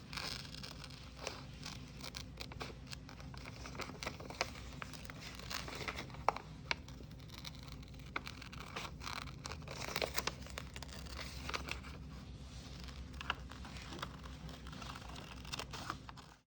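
Glossy magazine pages being cut with scissors and handled: irregular snips and clicks with paper rustling and crinkling.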